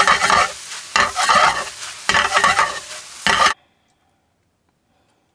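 A noodle, tofu and carrot stir-fry sizzling in a pan as it is stirred, in loud strokes about once a second. The sound stops abruptly about three and a half seconds in.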